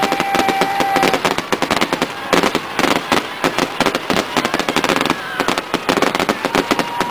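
Aerial fireworks going off in a dense, rapid run of sharp pops and crackles with no let-up, as rising comets burst into crackling stars.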